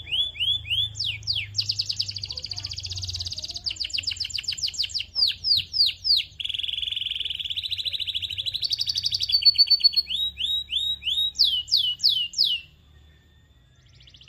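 Canary singing: a fast chain of trills, each a rapid string of repeated notes, changing pitch from trill to trill, with a few slower sweeping notes in between. Near the end the song breaks off.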